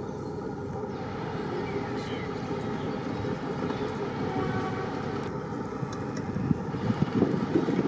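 A diesel locomotive running, a steady rumble that grows somewhat louder near the end as the train draws closer.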